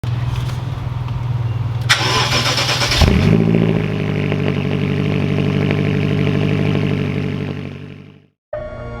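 2011 BMW X5M's twin-turbo V8 cold-starting. After a low hum, the starter cranks for about a second, the engine catches with a loud flare about three seconds in, then settles into a steady fast cold idle that fades out near the end.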